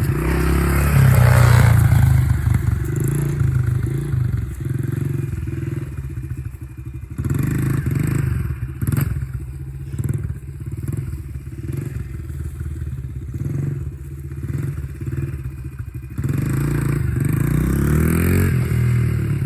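70cc dirt bike engine running, its revs and loudness rising and falling, loudest about two seconds in, with a rising rev near the end.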